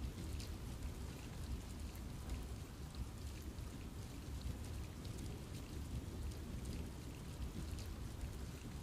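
Steady rain falling in a forest, with a constant low rumble under many small, scattered drop ticks.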